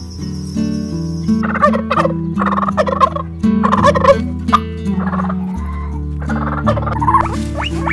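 Fowl calling in a string of rapid, rattling bursts, starting about a second and a half in, over background music.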